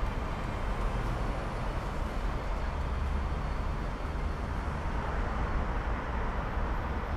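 Electric passenger trains rolling slowly into a station: a steady low rumble of wheels on rails, with no distinct clanks or squeals.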